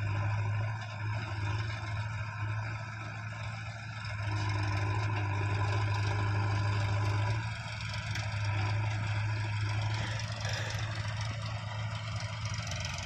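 Heavy diesel engine running steadily. It gets louder for about three seconds from about four seconds in, as if under load.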